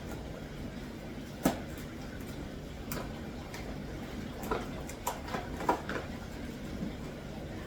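A steady low hum of fish-room equipment, with a handful of sharp clicks and knocks from handling: the loudest about a second and a half in, and a quick cluster of them a little past the middle.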